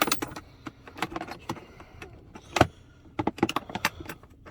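Scattered clicks and knocks of the wet/dry vacuum and its parts being handled and set in place, with one louder knock a little past halfway and a quick run of clicks after it; the vacuum's motor is not running.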